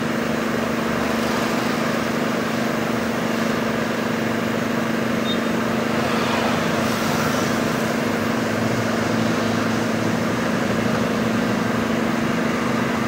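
Paint spray gun running: a steady motor hum with an even hiss of spraying air and paint.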